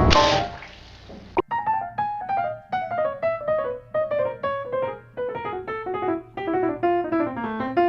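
Solo piano music: single notes in a melody that steps downward, starting about a second and a half in after a noisy sound fades out.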